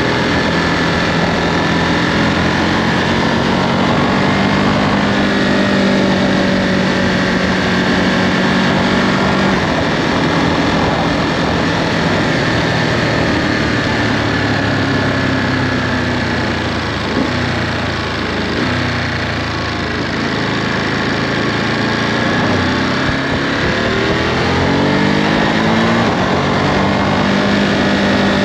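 Ducati Monster 937's 937 cc Testastretta L-twin engine running through the stock Euro5 exhaust while the bike is ridden. The engine note holds steady, drops in pitch a little past halfway as the throttle eases, then climbs again near the end.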